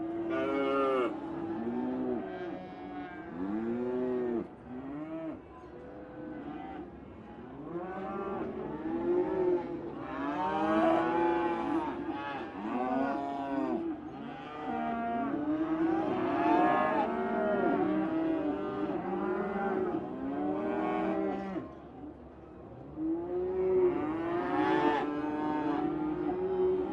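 A herd of dairy cows mooing, many calls overlapping almost without a break, each rising and then falling in pitch.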